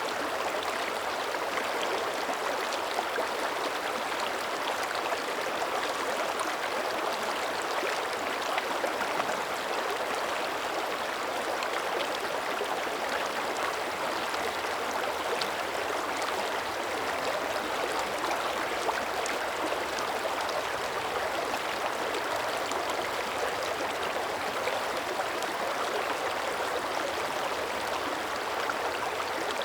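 A mountain creek's shallow water running steadily over stones, with a constant babbling and gurgling.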